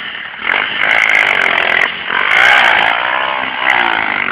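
Small motorcycle engine being revved up and down, its pitch climbing and falling repeatedly.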